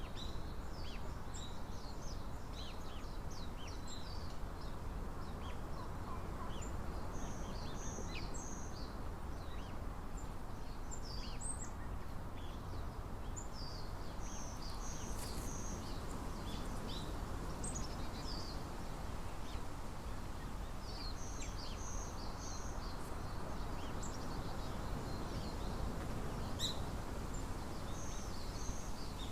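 Small birds chirping and calling, many short high notes scattered throughout, some in quick groups of three, over a steady low background rumble.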